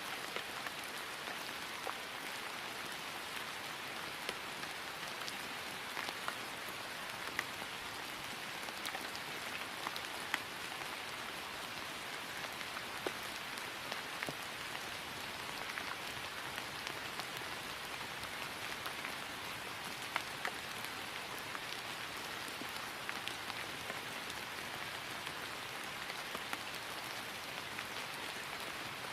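Steady rain falling on grass, an even hiss with scattered sharper drop ticks.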